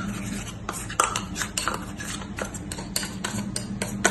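A metal utensil clinking and scraping against a dish in quick, slightly uneven taps, about four a second, as canned tuna is scooped and broken up. A steady low hum lies underneath.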